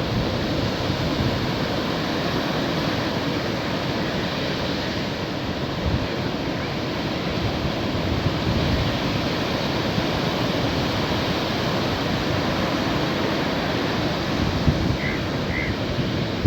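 Sea surf washing onto a beach, a steady rushing noise of breaking waves, with wind on the microphone.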